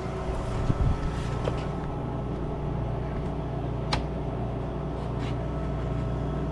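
Steady low hum of a vehicle's engine and road noise, with a single sharp click about four seconds in.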